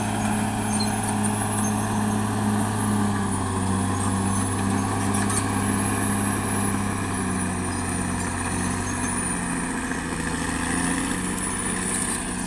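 Caterpillar D6R XL bulldozer's diesel engine running steadily, its pitch wavering slightly, with a thin high whine above it.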